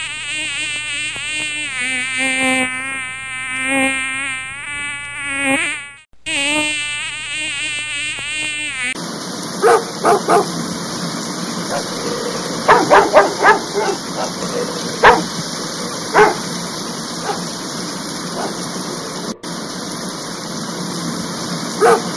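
A bee buzzing steadily, its pitch wavering, for the first several seconds. Then two dogs splash about in shallow water, with a steady rush of water and short barks and yips in bursts.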